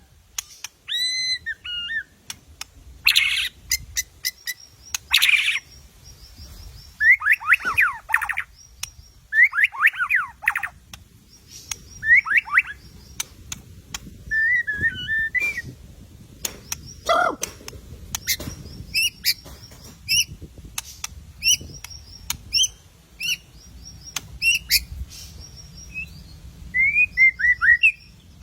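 White-rumped shama (murai batu) singing a long, varied song of loud gliding whistles, rapid sweeping trills, sharp clicks and high chattering notes in quick phrases with short pauses. It is the agitated, full-voiced song that is used as a lure recording to provoke other shamas into singing.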